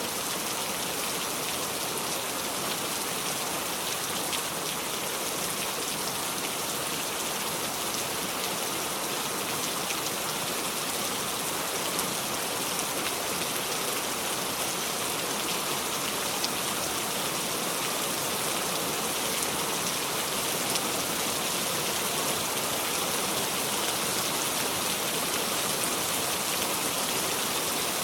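Steady heavy rain with no thunder: an even hiss of rainfall, with individual drops ticking on a surface.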